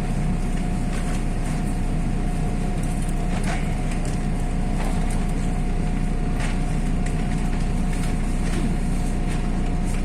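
MAZ-103 city bus under way, heard from inside the passenger cabin: a steady low engine and road rumble with a constant whine above it and scattered light rattles and clicks.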